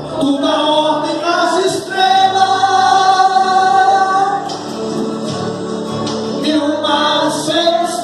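Gospel worship song sung over music, with one long held note about two seconds in.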